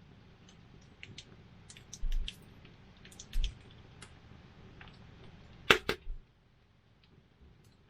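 Wood campfire crackling: scattered small pops and snaps over a low steady rumble, with two loud sharp cracks close together a little before 6 seconds in, after which the rumble drops away.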